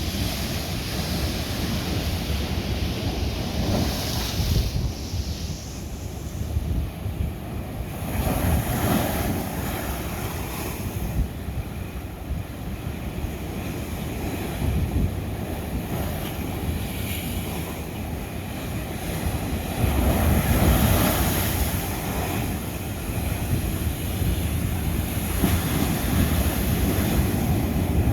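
Ocean waves breaking and surging on lava rock, in swells that build and recede every few seconds, with wind buffeting the microphone.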